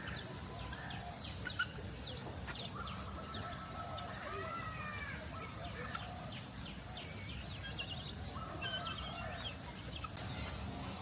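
Many birds calling together in a free-flight aviary: quick high chirps throughout, with a longer held note and arching calls about three to four seconds in, over a steady low background hum.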